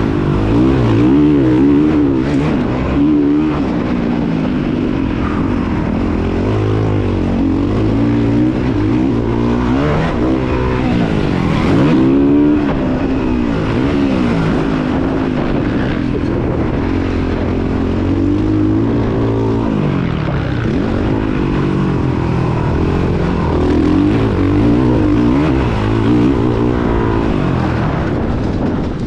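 Motocross bike engine revving hard and backing off again and again, its pitch rising and falling every second or two as the rider works the throttle and gears around the track.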